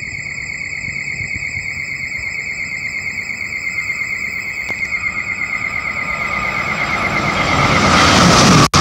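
An NJ Transit Multilevel commuter train approaches at high speed, about 95 mph, with its cab car leading. The wheel-and-rail rushing noise grows steadily louder and is loud near the end, while a high warbling whine that runs through the first half fades out. The sound cuts out for an instant just before the end.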